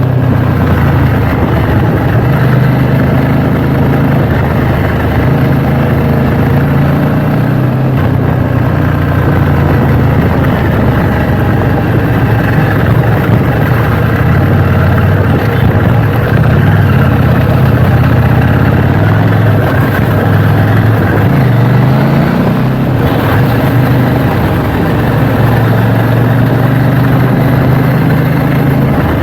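KTM Duke 790's parallel-twin engine running steadily and loudly, its pitch dipping and rising a few times about two-thirds of the way through.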